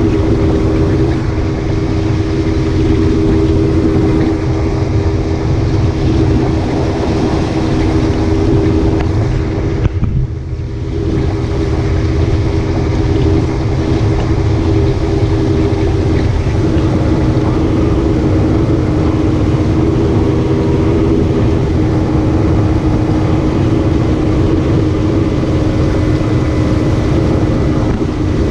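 Boat's outboard motor running steadily at speed, with a steady rush of wind and water noise; the sound briefly drops about ten seconds in.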